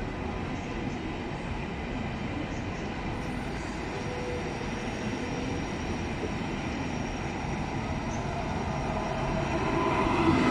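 ICE 1 high-speed train rolling past along the platform, with a steady rumble of wheels and running gear. The sound grows louder near the end as the power car goes by.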